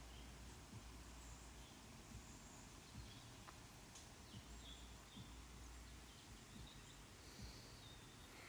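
Quiet outdoor ambience: faint scattered bird chirps over a low rumble of wind on the microphone.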